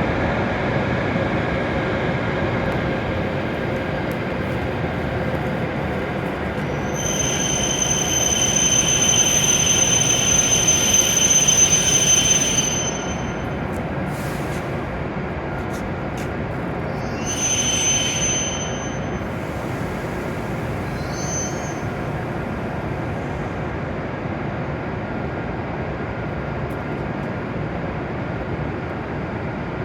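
W7 series Shinkansen train pulling into a platform and slowing to a stop, with a rumble throughout and a faint whine falling in pitch over the first few seconds. About seven seconds in comes a loud high-pitched squeal as it brakes, lasting about five seconds, and a second, shorter squeal about ten seconds later.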